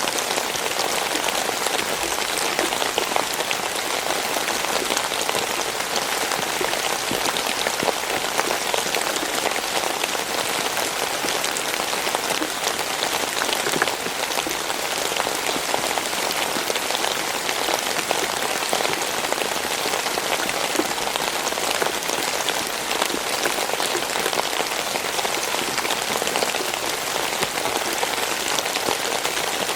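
Steady rain falling: a dense, even hiss of countless small drop impacts, unchanging throughout.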